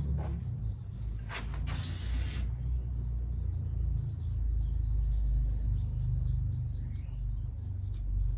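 Short hissing bursts of spray cleaner, three in the first two and a half seconds, flushing out motorcycle fork parts. After them comes a steady low rumble with faint small clicks.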